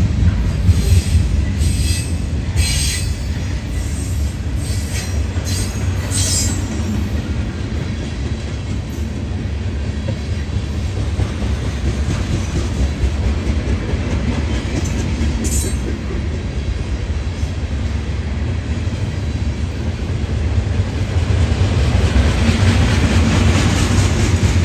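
Freight cars carrying green containers rolling past on jointed track, a steady low rumble of steel wheels on rail. A few short high wheel squeaks come in the first several seconds and once more midway, and a hiss builds near the end.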